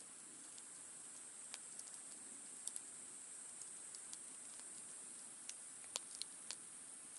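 Campfire crackling faintly: scattered sharp pops and ticks, the loudest about six seconds in, over a steady soft hiss.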